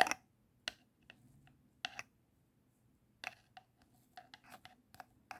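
A string of light clicks and taps from a small terrarium container and tools being handled: one sharp click at the start, then scattered small knocks, several close together near the end.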